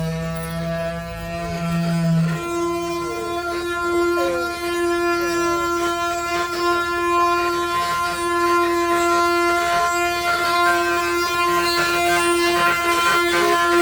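Wooden ox-cart axle singing (the 'canto' of a carro de boi): a long, steady whining drone. Its pitch steps up about two seconds in and then holds.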